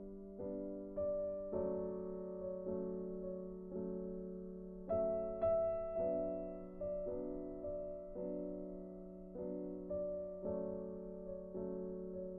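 Soft background piano music: slow notes and chords, each struck and left to fade.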